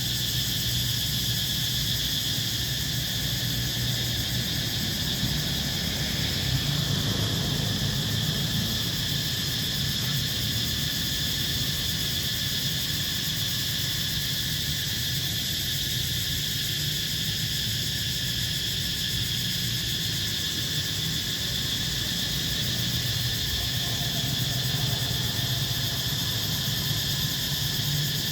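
Cicadas buzzing in a steady, unbroken chorus, high and even throughout.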